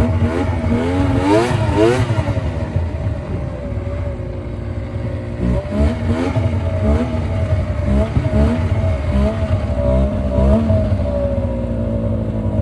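Yamaha VMAX three-cylinder two-stroke snowmobile engine running, with several quick throttle blips that rise and fall in pitch, then slowing near the end. It runs rough and lean after a carb clean, needing the choke to stay running.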